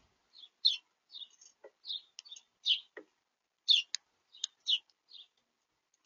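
Small songbirds at a bird feeder giving short, high chirps, about a dozen scattered over several seconds, with a few sharp clicks among them.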